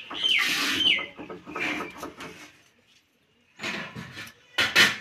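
Birds calling: two quick falling chirps about half a second apart in the first second, followed by several short, rough bursts.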